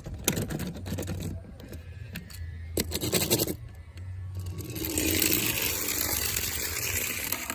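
Toy cars scraping and rattling as they are handled and rolled, in three bouts, the last and longest starting about halfway through.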